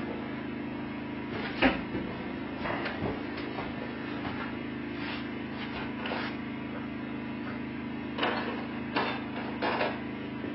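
Scattered knocks and handling clatter, about eight separate short strikes, from fitting a stove chimney in place, over a steady low hum.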